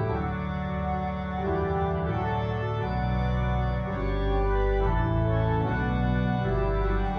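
Church organ playing the postlude after the dismissal: slow, sustained chords over a bass line that moves every second or so.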